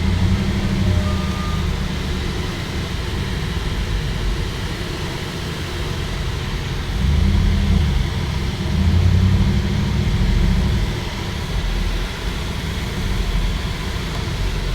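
A motor vehicle's low engine rumble that swells louder twice near the middle.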